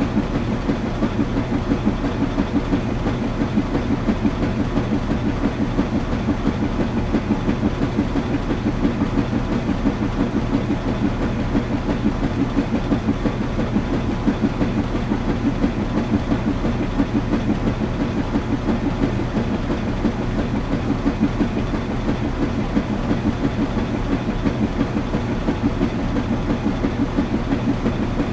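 Washing machine running: a steady low rumble with a quick, regular pulse that does not let up.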